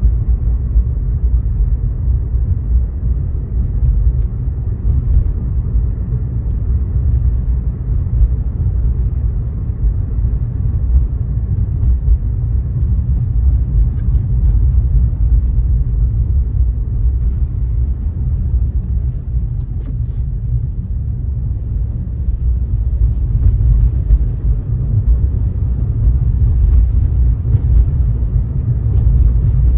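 Steady low rumble of a car driving at road speed: road and tyre noise with engine drone, with no sudden events.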